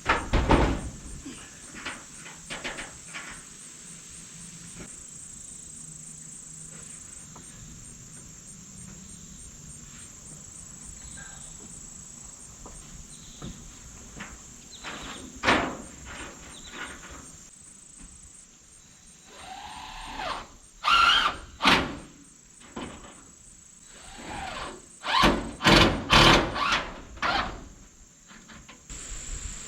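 Scattered knocks, clatter and scraping from lumber and sheet-metal roofing being handled, with a short squeal; the busiest, loudest stretch comes in the last ten seconds. Insects chirp steadily behind in a high, even buzz.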